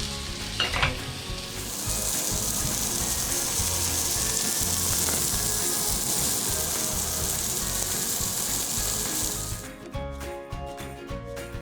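Steak sizzling in an iron frying pan, a steady loud sizzle that begins about two seconds in and stops near the end, where music takes over.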